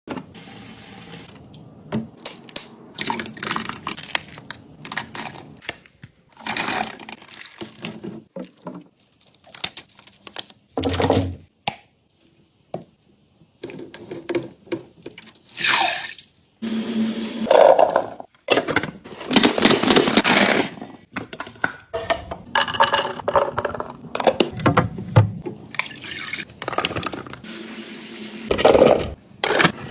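Kitchen tap water running on and off in bursts of a second or two while produce is rinsed, mixed with the noise of handling it.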